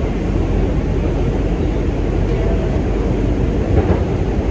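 New York City subway 2 train car running between stations, heard from inside: a steady, loud rumble of the wheels on the rails and the car in motion.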